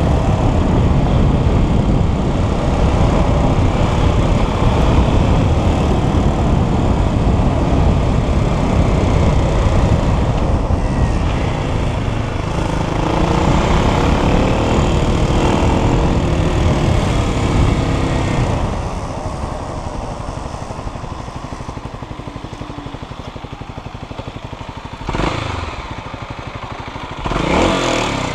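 Dirt bike engine running hard with rising and falling revs, dropping to a lower, quieter running note about two-thirds of the way through, then two short loud revs near the end.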